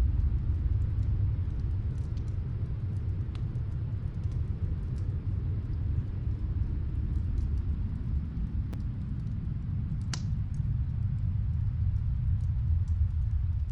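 Snowstorm wind blowing as a steady, deep rush, with faint, scattered crackles of a wood fire from another room; one sharper crack about ten seconds in.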